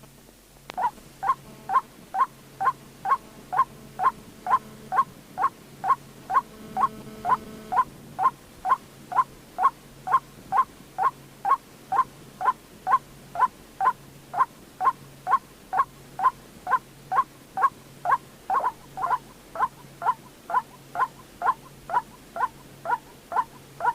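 White-breasted waterhen calling: a steady run of short, sharp, evenly repeated notes, about two a second, beginning about a second in. This is a lure recording for trapping the bird.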